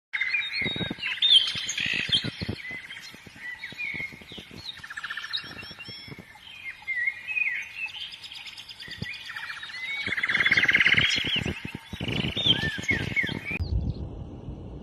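Birds chirping and calling in quick, overlapping notes with several buzzy trills, over scattered light knocks. The birdsong cuts off suddenly near the end, leaving a low rumble.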